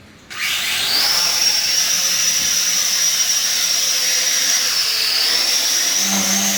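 Sky Viper v950 STR quadcopter's rotors spinning up about a third of a second in to a high, steady whine as the drone takes off. The pitch dips slightly about five seconds in and rises again near the end as the throttle changes.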